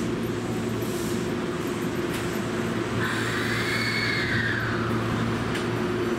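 Steady train and station noise with a constant low electrical hum. About halfway through there is a brief high squeal that rises and then falls.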